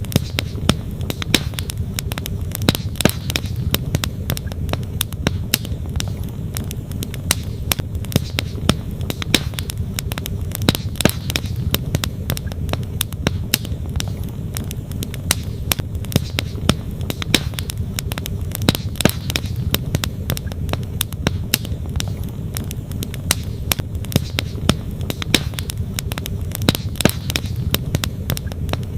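Wood campfire crackling, with frequent sharp pops and snaps of burning wood, over the steady low rush of a flowing stream.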